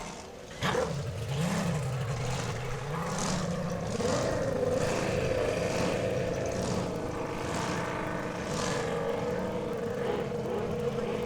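Racing hydroplane engine running hard, loud from under a second in: its pitch wavers up and down, then climbs about four seconds in and holds a steady high note.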